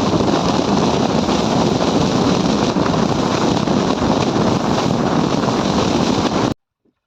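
Wind buffeting the microphone on an open boat at sea, a loud steady rush with the wash of water beneath it, cutting off suddenly near the end.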